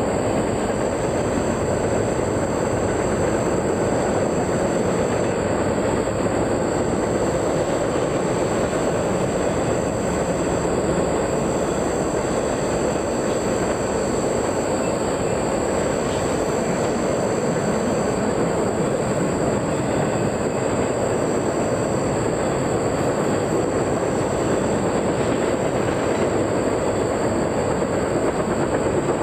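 Train rolling past on the tracks: a steady, unbroken rush of wheels on rail that holds an even level throughout, with faint intermittent high squeals from the wheels.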